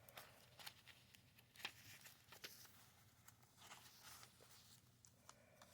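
Faint rustling and a few soft, irregular ticks of paper as the pages of a handmade junk journal are turned and handled.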